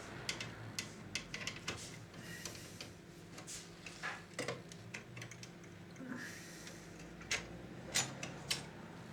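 Irregular light clicks and taps of hands handling the plastic and metal parts of an opened VCR, over a faint steady hum.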